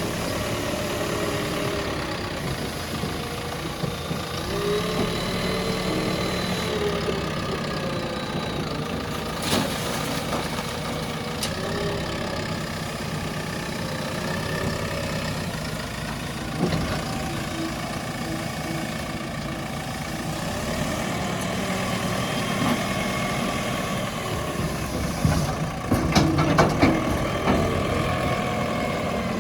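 JCB 3DX backhoe loader's diesel engine running and revving up and down as it works the front bucket, with a few sharp knocks, several close together near the end.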